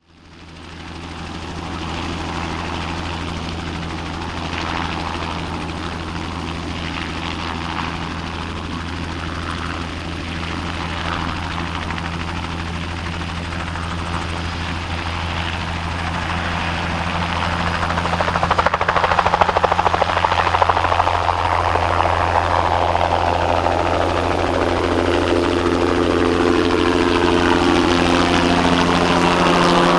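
Bell 206B-3 JetRanger III helicopter's turbine and rotor running: a steady rotor beat with turbine whine that fades in at the start and grows louder from about halfway as the helicopter comes closer, with pitch glides near the end as it passes.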